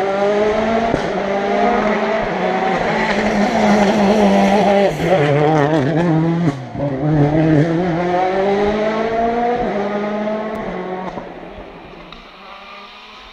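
Rally car engine revving hard and climbing in pitch through several gears, with a brief drop at a shift midway. It then fades away as the car moves off.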